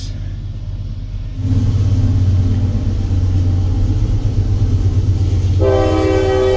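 A CSX train rumbling past, the low rumble growing louder about a second and a half in. Near the end the locomotive horn sounds one long chord.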